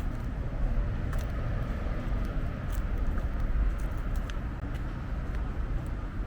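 Outdoor street ambience: a steady low rumble, typical of traffic or wind on the microphone, with scattered light clicks.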